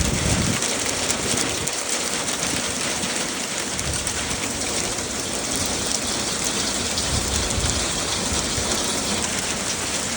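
Heavy downpour: a dense, steady hiss of rain pelting down, with some low rumbling underneath.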